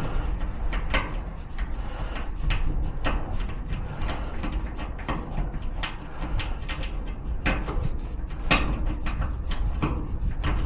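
Lock picks working in a garage door lock cylinder: irregular small clicks and scrapes, roughly two a second, as the pins are raked and probed. A steady low rumble runs underneath.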